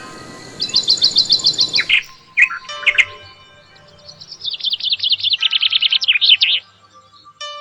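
A small bird chirping in quick runs of repeated high notes, twice, with faint background music under it. A hissy background cuts off suddenly about two seconds in.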